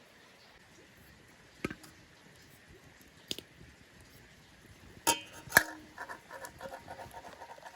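Kitchenware clinking: a few separate knocks of utensils against pots or dishes, the loudest two close together past the middle, then a quick run of light taps near the end.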